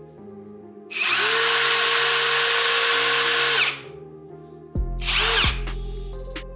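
Parkside Performance PDSSAP 20-Li A1 cordless impact driver run in one burst of about three seconds: its motor spins up quickly to a steady whine, then stops. A second, brief burst follows about a second and a half later, over background music with a heavy bass beat.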